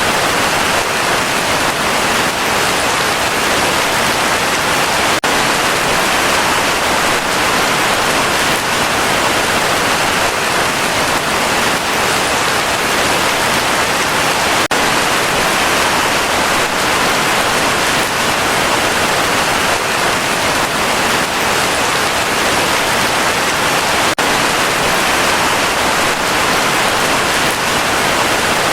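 Heavy rain pouring steadily, a dense, even hiss of countless drops with no thunder.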